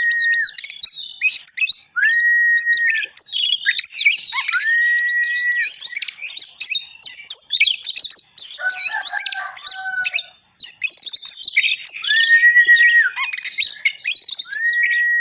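Oriental magpie-robin (kacer) singing loudly and continuously: rapid, varied high chattering phrases broken every few seconds by a long, level whistle held for about a second.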